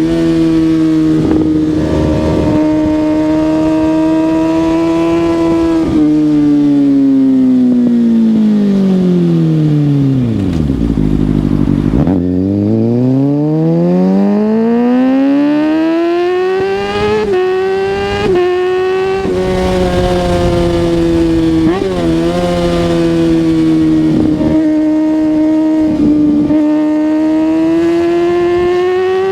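Kawasaki ZX-6R 636's inline-four engine running at a steady pitch. About six seconds in, the revs fall smoothly for several seconds as the throttle is rolled off, nearly down to idle. The engine then climbs back up hard under acceleration, with a few quick gear changes, holds steady, and rises again near the end.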